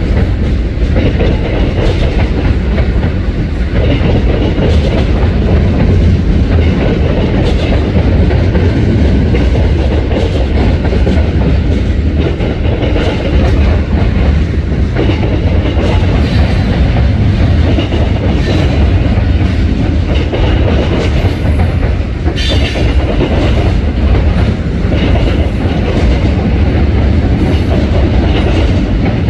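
Freight train cars rolling past steadily, wheels clicking over the rail joints with a heavy rumble. A brief high wheel squeal comes about two-thirds of the way through.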